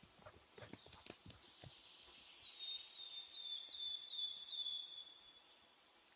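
A few quick rustles and crackles, then a small bird calls a run of about six quick high notes, each sliding down onto a steady whistle.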